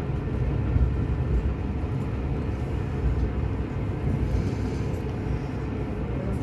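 Train running on a non-electrified line, heard from on board: a steady low rumble of the diesel railcar and its wheels on the rails.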